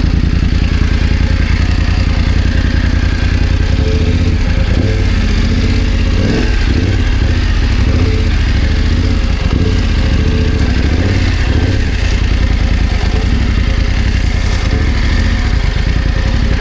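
BMW F 900 GS parallel-twin motorcycle engine running steadily at low revs, its pitch rising and falling with the throttle through the middle of the stretch.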